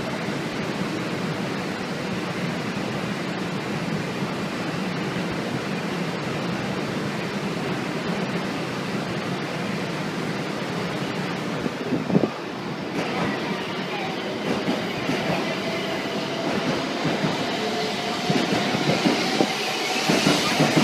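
Shinkansen train pulling out of the platform, a steady rushing noise, with a sharp knock about twelve seconds in.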